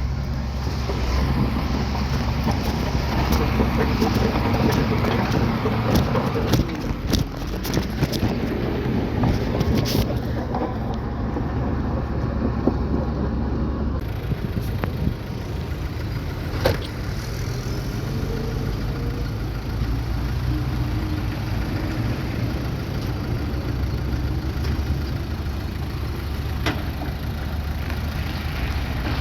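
Bulldozer's diesel engine running steadily under load, with scattered clanks and knocks from the machine at work, thickest in the first third. The sound changes abruptly about halfway through, as at a cut.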